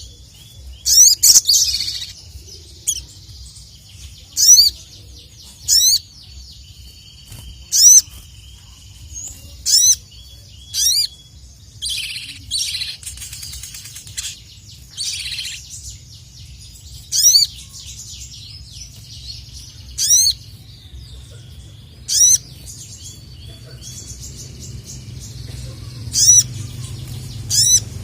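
Sogon (sogok ontong, the ruby-cheeked sunbird) singing hard: loud, sharp sweeping whistled notes repeated every second or two, with a stretch of rapid chattering in the middle. A steady low hum runs underneath.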